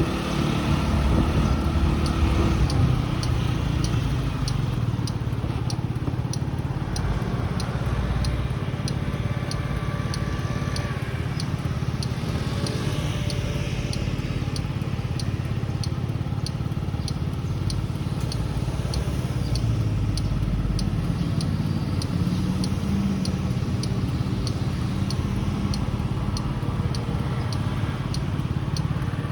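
Small motorcycle's engine running steadily while riding, with road and wind noise. A faint, regular high tick recurs about twice a second.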